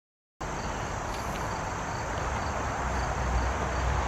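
Cricket chirping steadily, a faint high chirp repeating about twice a second over a steady low rumble of outdoor background noise; the sound cuts in abruptly just after the start.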